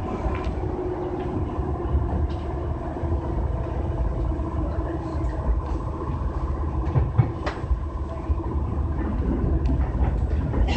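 Kintetsu 6020 series electric train running, heard from inside behind the cab: a steady low rumble of wheels on rail with a faint steady hum and a few sharp clicks from the track.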